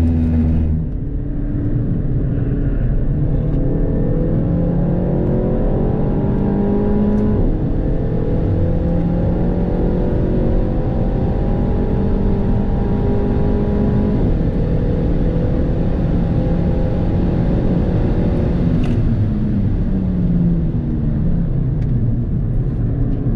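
Stock Renault Mégane RS Trophy's 1.8-litre turbocharged four-cylinder heard from inside the cabin under hard acceleration: the revs climb, drop sharply at an upshift about seven seconds in, climb again to a second upshift about fourteen seconds in, then fall away over the last few seconds as the car slows.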